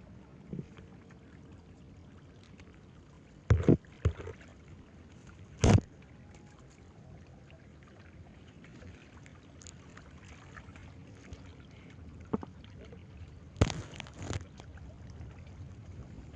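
Low steady outdoor background noise broken by a few short, sharp knocks or handling bumps: two close together about a quarter of the way in, one a couple of seconds later, and a small cluster near the end.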